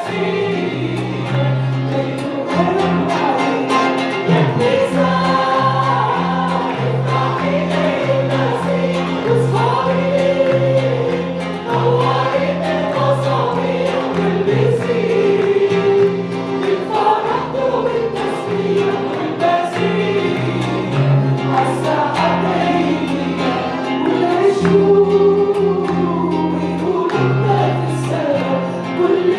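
Congregation singing an Arabic worship hymn together over instrumental accompaniment, with a bass line stepping from note to note beneath the voices.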